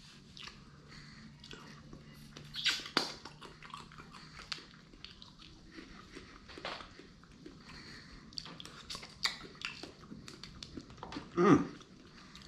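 Close-miked chewing of sushi: soft, wet mouth sounds and small clicks. There is a louder burst of mouth noise about three seconds in and another near the end.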